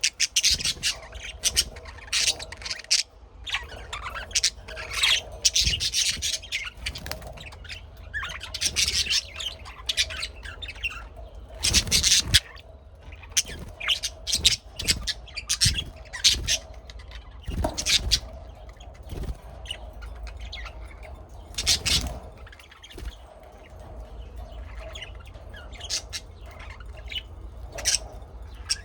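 Birds chirping and calling: many short, high calls, one on top of another, with a few louder sharp calls about twelve and twenty-two seconds in, over a low steady rumble.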